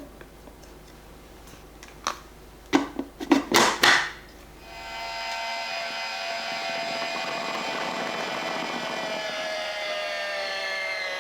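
A few sharp knocks, then a cordless electric citrus juicer's motor starts about four and a half seconds in and runs steadily with a whine that slowly falls in pitch.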